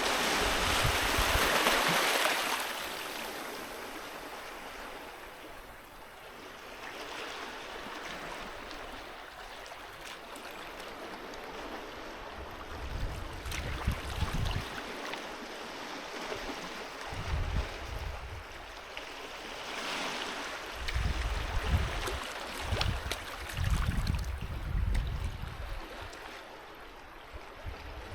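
Sea waves breaking and washing up the shore: a loud surge in the first couple of seconds that fades away, then smaller washes building again. Bursts of low rumble come through in the second half.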